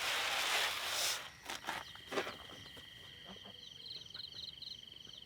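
A loud rustle or scuffing for about the first second, then a few knocks, over a steady high pulsing trill like an insect's, with a brief run of high chirps about four seconds in.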